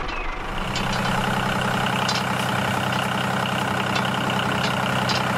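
Tractor engine idling steadily after starting, settling into an even idle about half a second in.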